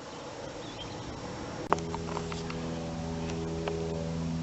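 Faint outdoor background noise. About two seconds in, a click is followed by a steady low mechanical hum with a few faint ticks.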